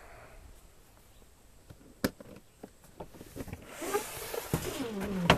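Camp cooking gear and supplies being handled and rummaged through: scattered light clicks and knocks, a sharp click about two seconds in, then rustling that builds near the end and ends in a louder knock.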